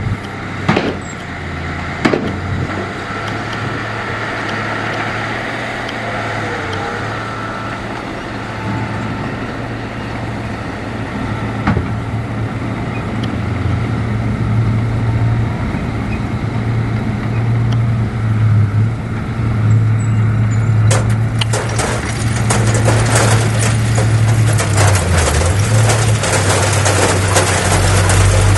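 Heavy diesel earthmoving machinery running steadily with a low, even engine drone. A couple of sharp knocks come in the first few seconds, and about two-thirds of the way through a dense crackling clatter joins in.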